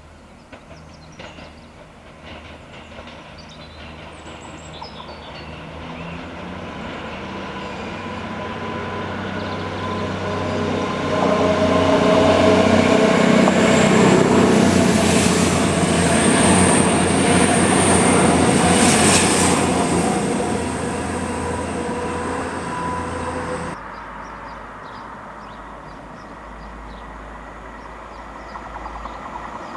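A diesel multiple-unit passenger train approaches and runs past close by, its engines and wheels on the rails building to a loud pass in the middle. A thin high wheel squeal sounds as it takes the curve. About three-quarters of the way in the sound cuts abruptly to a quieter scene, where a second diesel train is heard approaching near the end.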